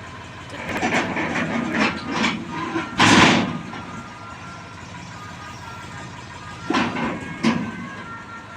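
A run of knocks and scrapes lasting about two seconds, then one loud rushing burst about three seconds in. Two shorter knocks follow near the end, over a faint steady hum.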